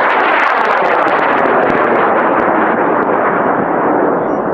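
Aerotech M1850 high-power rocket motor burning after lift-off of a two-stage rocket's booster: a loud, steady rushing roar with crackle, easing off slightly near the end as the rocket climbs away.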